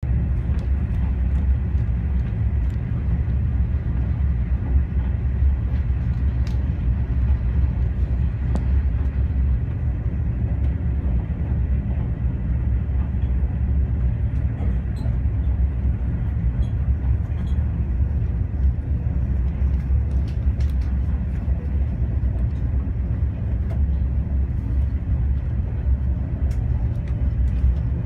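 Steady low rumble of a Renfe AVE high-speed train running at speed, heard from inside the passenger cabin, with a few faint scattered ticks.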